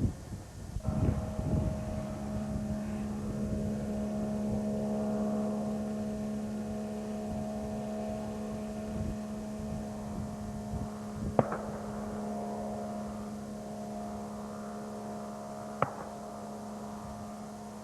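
Boat engine running steadily, picking up about a second in, with four sharp cracks: one at the start, one about a second in, then two more widely spaced in the second half.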